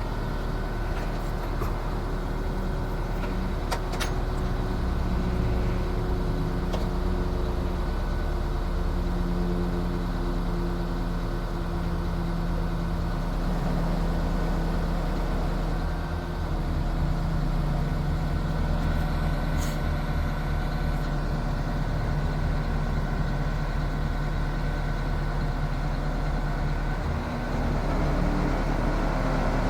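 Diesel engine of a 2001 International 4800 bucket truck running steadily, its pitch shifting a little, with a few faint clicks.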